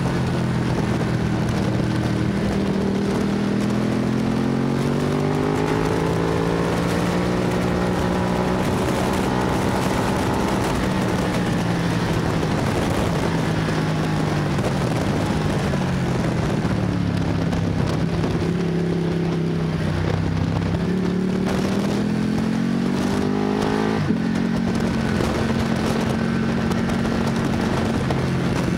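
Sport motorcycle engine heard onboard at speed on a race track. Its pitch climbs as it accelerates, falls away through a long slowdown, then climbs again before changing abruptly about 24 seconds in. A steady rush of wind noise runs underneath.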